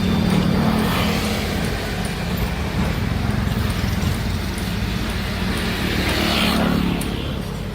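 Heavy diesel engine of construction machinery running steadily, growing louder briefly at the start and again about six seconds in.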